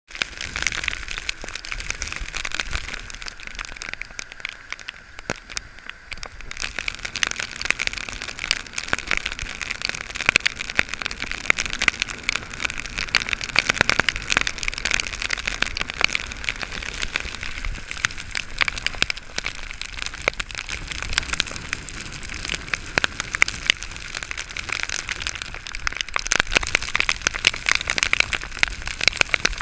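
Rain falling, a dense steady crackle of drops striking a surface, easing briefly about five seconds in.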